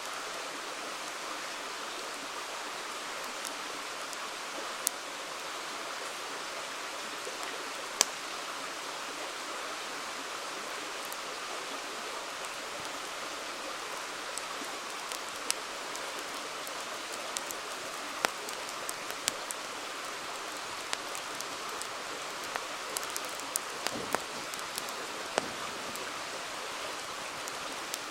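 A river flowing with a steady rush, and a wood campfire crackling over it with sharp single pops here and there, coming more often in the second half.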